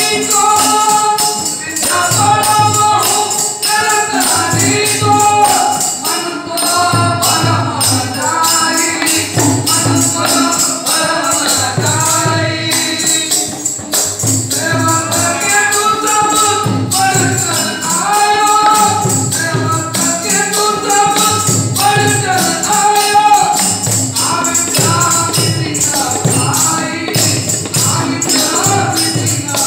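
Ektari bhajan: voices singing a devotional melody over constant jingling percussion and a low drum beat about once a second.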